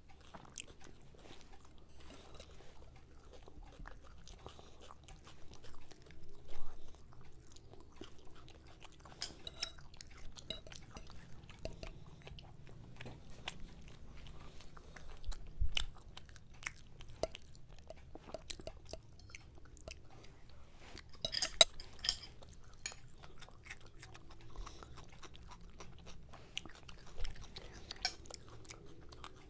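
Two people chewing and biting fried Mughlai paratha and breaded chicken chop, close to the microphone, with scattered crisp crunches. The loudest crunches come about 6, 16 and 22 seconds in.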